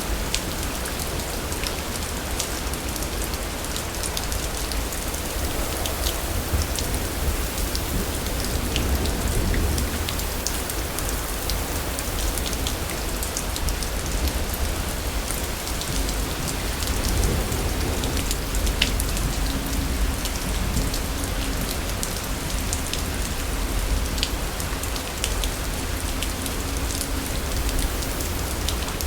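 Steady heavy rain falling, with many individual drops ticking over a constant hiss and a low rumble underneath. A faint, steady low drone comes in about halfway through.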